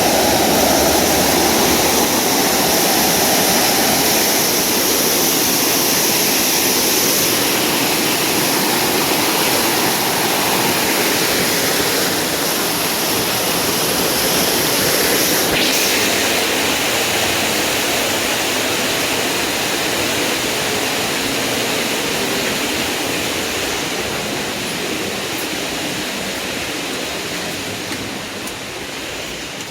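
Waterfall's falling water, a steady rushing that slowly gets quieter near the end.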